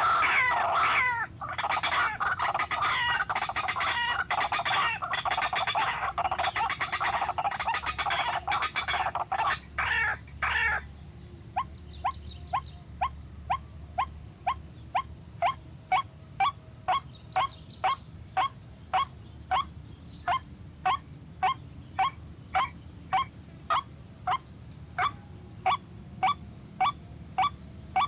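White-breasted waterhen calling: a dense run of loud, harsh croaking calls for about the first ten seconds, then a steady series of single repeated notes about twice a second.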